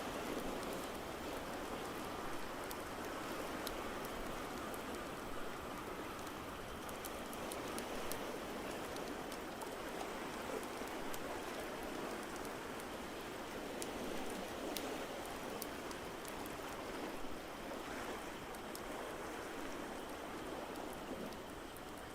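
Crackling fire: scattered small sharp pops over a steady watery hiss.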